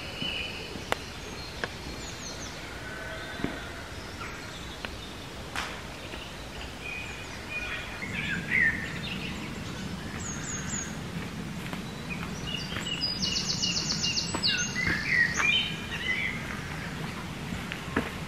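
Woodland birds calling and singing: scattered short chirps and phrases, with a fast high trill about thirteen seconds in, over a low steady background rumble that grows from about eight seconds in.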